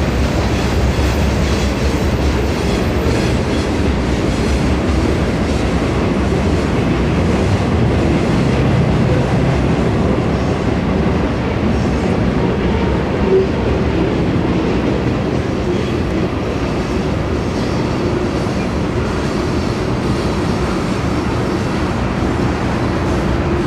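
Freight cars of a manifest train rolling past at steady speed: a continuous rumble of steel wheels on rail, with one short clank about halfway through.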